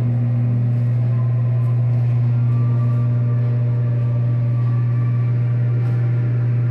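Steady low mechanical hum with faint higher tones above it, unchanging throughout.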